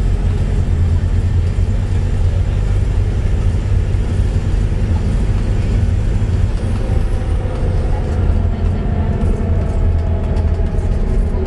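Volvo B7TL double-decker bus under way, its engine and drivetrain giving a loud, steady low drone. A faint whine rises in pitch about two-thirds of the way through.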